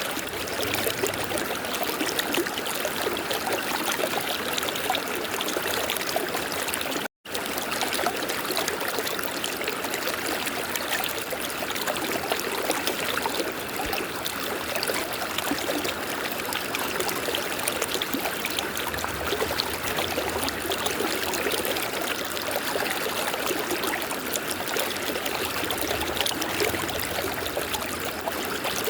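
River water flowing and rushing steadily. The sound cuts out completely for a split second about seven seconds in.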